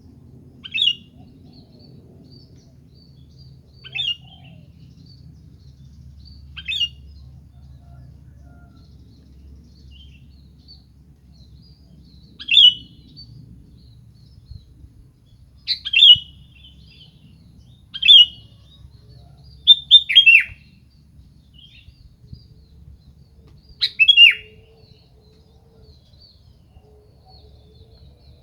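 Sooty-headed bulbul (kutilang) giving short, sharp calls every two to four seconds, some in quick pairs that drop in pitch, over a faint low hum.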